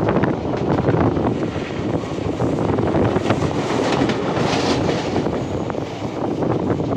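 Express passenger train running along the track, a steady rumble and rattle of the wheels and coaches with irregular knocks, mixed with wind buffeting the microphone.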